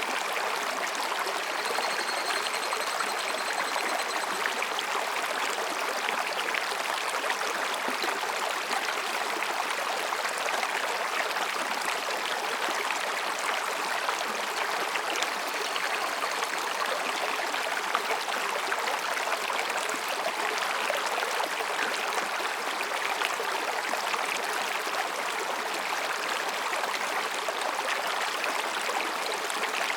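Mountain stream rushing and babbling over rocks in a steady, unbroken flow. A faint high tone sounds briefly about two seconds in.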